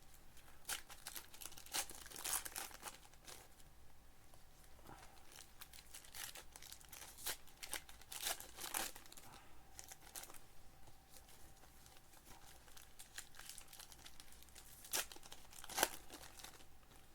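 Trading card packs and cards being handled: crinkling of foil pack wrappers and quick rustling scrapes of cards being shuffled through. The strokes come in irregular short bursts, a few louder ones near the middle and near the end.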